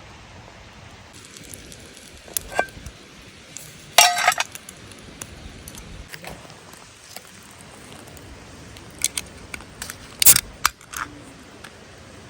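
Metal objects clinking and knocking a few times, with a loud ringing clink about four seconds in and another cluster of clinks near the end.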